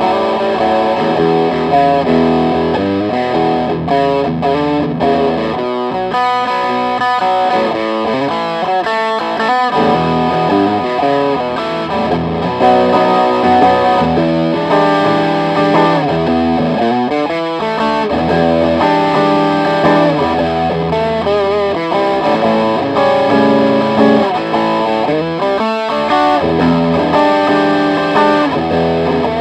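Electric guitar (ESP LTD Viper 200 FM) played through a Behringer TO800 Vintage Tube Overdrive pedal into a Marshall Valve State 80 amp: a run of sustained notes and chords with a mild, soft overdrive.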